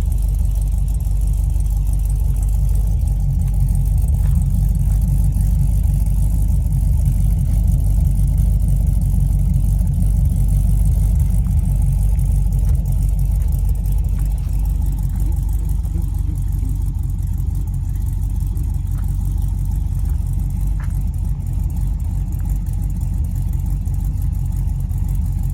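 2014 Camaro SS 1LE's 6.2-litre V8 idling steadily through Kooks long-tube headers and a Magnaflow Street Series exhaust, with a deep, even exhaust note.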